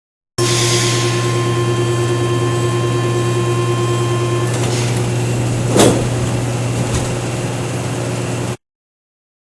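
Mexico City Metro train's door-closing warning buzzer: a loud, steady buzz over a low hum, with its higher tones stopping about four and a half seconds in. A short burst of noise, like the doors shutting, comes about six seconds in, and the recording cuts off suddenly near the end.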